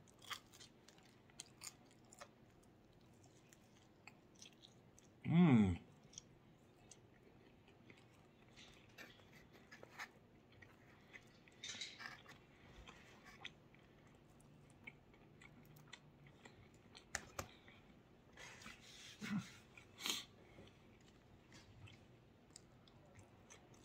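Close-miked chewing and biting of pan pizza: soft wet mouth sounds and small clicks, with a short hum of the voice falling in pitch about five seconds in.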